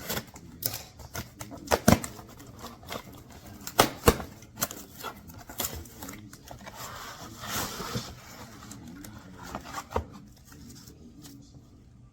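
Irregular knocks, clicks and rustling of objects being handled, with a longer rustle about seven to eight seconds in. There is no motor running.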